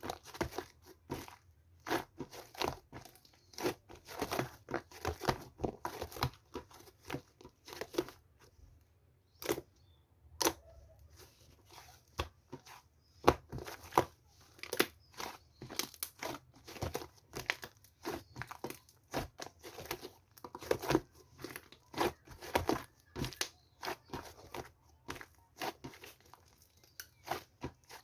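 Crinkly material being handled: irregular crinkling, crackling and tearing sounds, thinning out briefly about a third of the way in.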